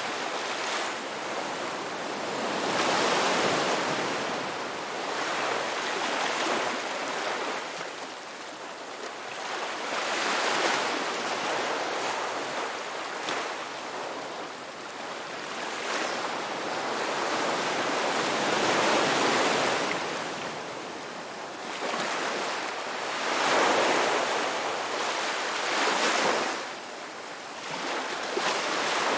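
Sea waves breaking and washing on a shore, a continuous rushing that swells and ebbs every few seconds as each wave comes in.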